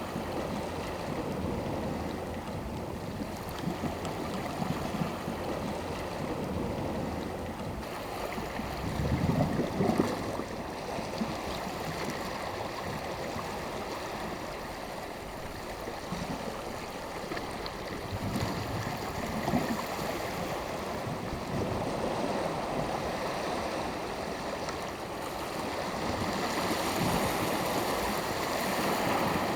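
Small sea waves breaking and washing on the shore, a steady surf with a low surge of a larger wave about nine seconds in, another near twenty seconds, and a stronger wash building near the end.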